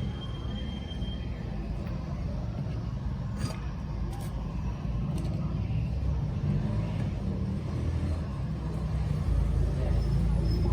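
A steady low rumble, slightly louder near the end, with a few light clicks about halfway through.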